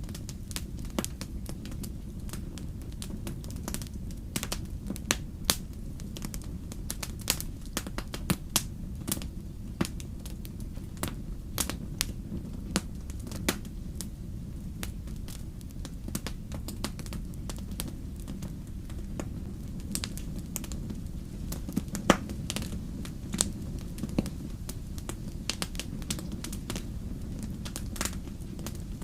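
Wood fire crackling and snapping, with irregular sharp pops, some louder than others, over a steady low rumble.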